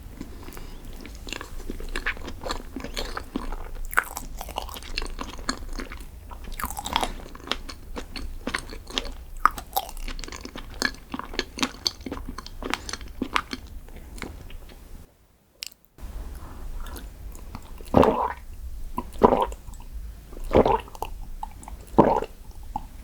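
Close-miked chewing and crunching of chocolate desserts, with many small crackly clicks. The sound drops out for about a second partway through, then comes back as four louder chews or bites, roughly one every second and a half.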